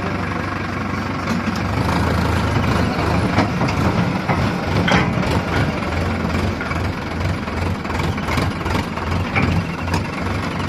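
Heavy diesel engine of a backhoe loader or tractor running, growing louder about two seconds in, with a few sharp metallic clanks.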